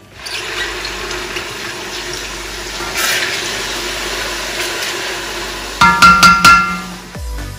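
Wet, coarsely blended onions, peppers and herbs sizzling in hot sunflower oil in an enamelled cast-iron pot: a steady hiss. About six seconds in come a few loud, ringing clanks as the spatula knocks against the pot.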